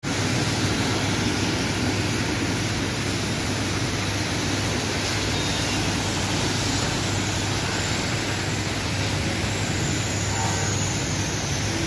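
Steady hiss of a heavy rain downpour, with vehicles passing on the wet road.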